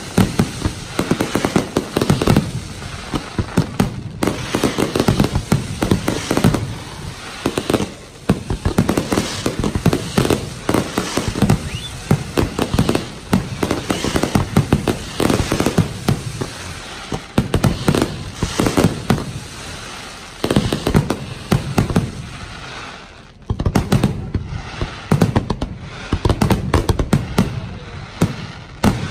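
Dense barrage of aerial firework shells bursting one after another, sharp reports and crackle overlapping without pause. A short lull comes about three-quarters of the way through before the bursts pick up again.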